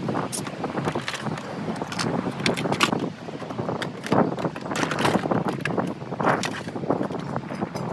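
Irregular sharp clanks and knocks of metal tools and car parts being worked on during dismantling, over a steady background noise.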